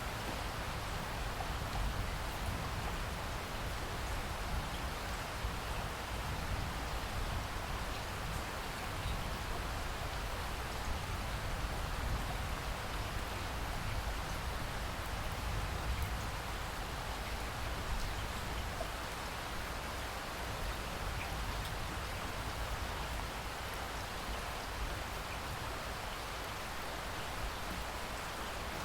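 Steady rain falling: an even, unbroken hiss of drops, with no distinct events standing out.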